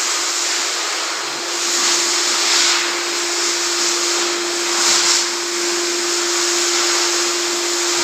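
Vacuum cleaner running steadily: a rush of air over a steady motor hum. The rush swells briefly twice, a couple of seconds in and about five seconds in.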